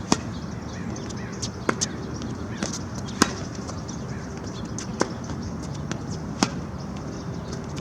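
Tennis ball being hit and bouncing during a baseline rally: sharp pops about every second and a half, five in all, with fainter ticks between them.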